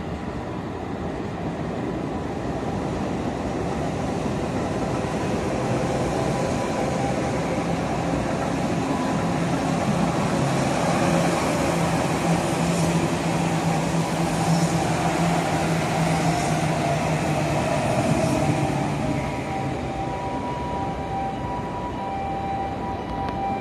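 Electric commuter train approaching and passing along the tracks below, a steady rumble with a low motor hum that builds, peaks as the cars go by, then fades. While the cars pass there are a few sharp clicks in an even rhythm about two seconds apart, and near the end a steady high whine sets in.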